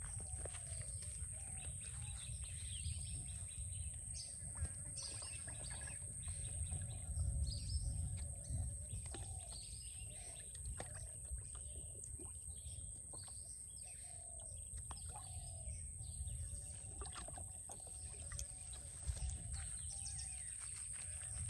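Birds calling and chirping over a steady low rumble: short repeated calls about once a second, with higher chirps and a few sharp clicks.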